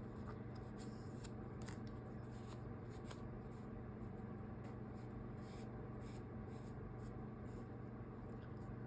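Soft fabric rustling with small scattered handling clicks as a small sewn cloth doll piece is worked and turned right side out, over a steady low hum.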